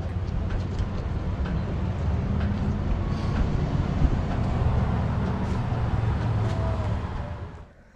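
A motor vehicle driving along with a steady, low engine and road rumble, fading out near the end.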